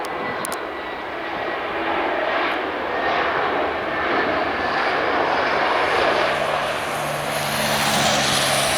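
Jet airliner's engines, a loud steady rush that swells toward the end, with a high whine coming in near the end.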